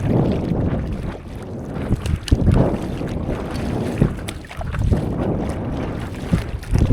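Water splashing and sloshing around a stand-up paddleboard out at sea as the paddle works, in surges every second or two. Wind buffets the microphone throughout.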